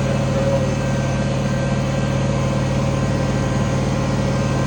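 International 1566 tractor's turbocharged six-cylinder diesel engine running steadily under load while pulling a cultivator.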